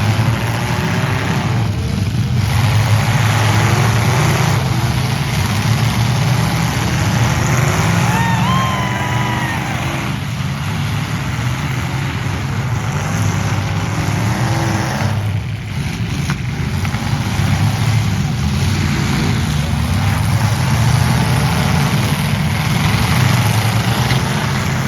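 Demolition derby trucks' engines running loud and continuous, revving up and down, with a few brief wavering high-pitched tones over the din.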